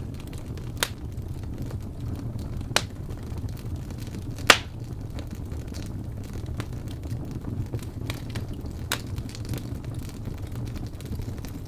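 Wood fire crackling in a fireplace: a steady low rumble of burning with scattered sharp pops, the loudest about four and a half seconds in.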